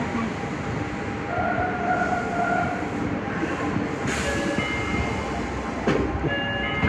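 Nagoya subway Higashiyama Line 5050-series train at a station stop: a short steady tone about a second and a half in, a hiss of air about four seconds in, then a run of short steady tones at stepping pitches as the train starts to move.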